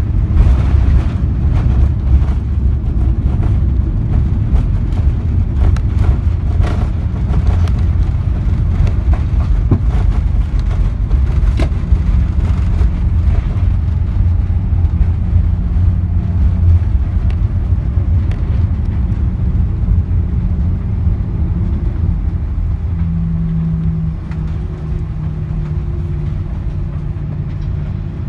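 Cabin noise of an Airbus A340-300 rolling out after landing: a loud low rumble of the wheels on the runway with scattered knocks and jolts, slowing down. A steady low hum comes in about halfway and grows louder, while the rumble eases toward the end.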